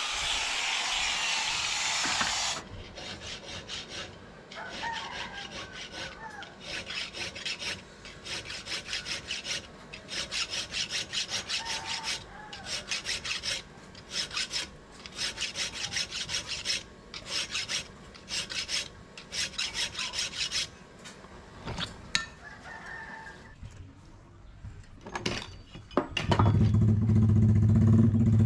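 Rhythmic hand strokes of a rasping tool on steel, about two to three strokes a second, in runs with short pauses. A rooster crows in the background, and about two seconds before the end a machine starts running with a steady low hum.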